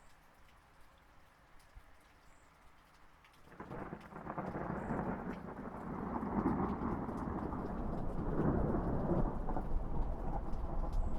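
Rain falling lightly with scattered drop ticks. About three and a half seconds in, a long rolling rumble of thunder builds up and keeps rumbling, growing louder.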